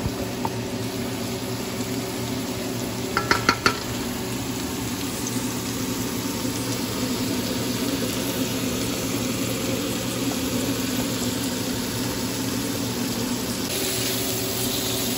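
Marinated shrimp and onions sizzling steadily in an oiled frying pan over medium heat. A quick run of sharp knocks comes about three seconds in, and near the end a wooden spatula stirs the shrimp, making the sizzle brighter.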